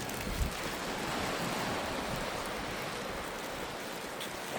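Steady wash of ocean surf breaking on the beach, with a brief low bump about half a second in.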